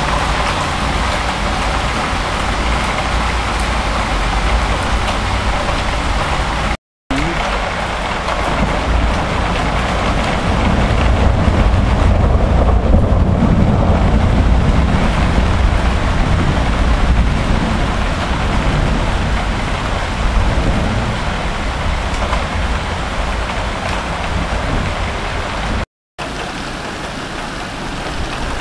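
Heavy rain pouring down steadily in a thunderstorm downpour, with a deep rumble underneath that is strongest through the middle. The sound cuts out completely for a moment twice.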